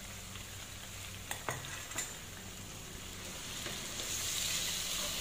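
Diced tomatoes and garlic sizzling in hot oil in one pan and zucchini slices frying in another, with a spatula stirring the tomatoes and a few light knocks against the pan between one and two seconds in. The sizzling grows louder about four seconds in.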